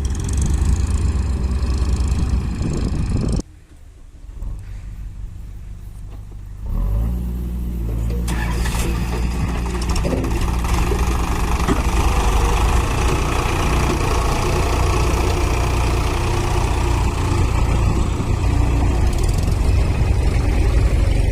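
Heavy vehicle engine running steadily. It drops away abruptly a few seconds in, and after a quieter stretch of about three seconds it comes back at full level and runs on.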